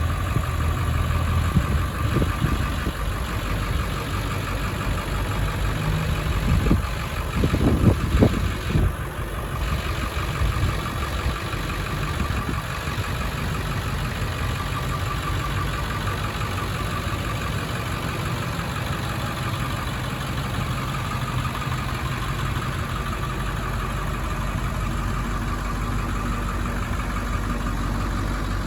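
1997 International 4700 truck's engine idling steadily, with a few louder, rougher moments about two seconds in and again around seven to nine seconds in.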